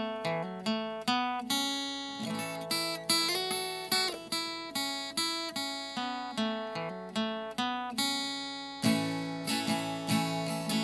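Acoustic guitar playing a picked introduction, one plucked note or chord after another at an even, steady pace.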